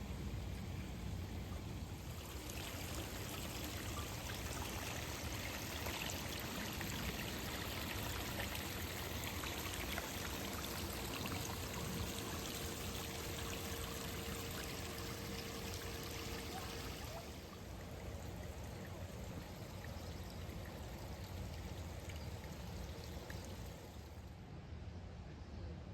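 Running water, a steady splashing hiss that grows fuller about two seconds in and drops back about two-thirds of the way through.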